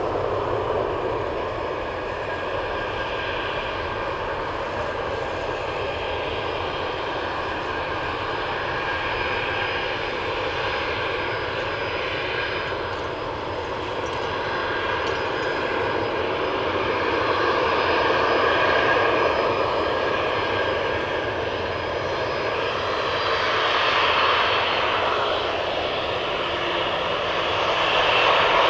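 A steady engine drone with a broad rushing noise and a few faint steady tones, swelling and easing slowly in loudness and loudest near the end.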